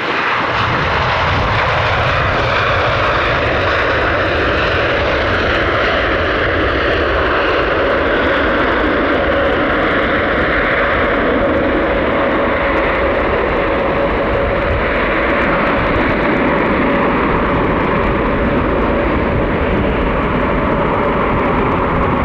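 Boeing 787 Dreamliner's jet engines on landing approach: a loud, steady jet noise with deep rumble and a thin whine held throughout, the whine dipping slightly in pitch near the end.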